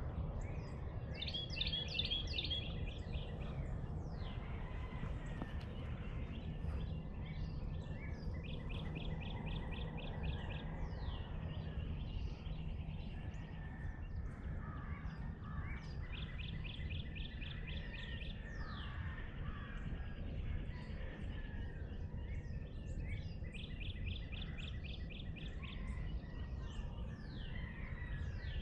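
Songbirds singing at dawn. One bird repeats a fast run of about ten even notes, lasting about two seconds, four times. Other birds give short high down-slurred whistles between the runs, all over a steady low outdoor rumble.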